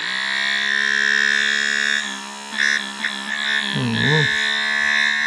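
Small electric pump of a battery-powered sprayer switched on and running with a steady, high-pitched whine.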